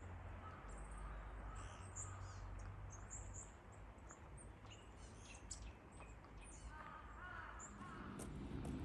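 Birds chirping and calling, many short high chirps scattered throughout, with a few lower calls near the end, over a faint steady low rumble.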